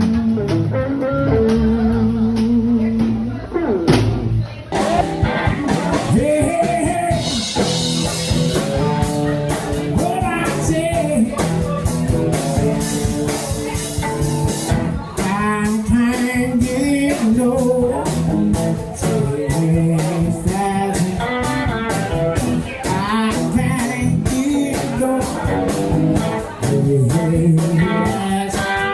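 Blues band playing, with electric guitar lines leading. Sparse guitar notes open, and the full band with drums comes in about five seconds in.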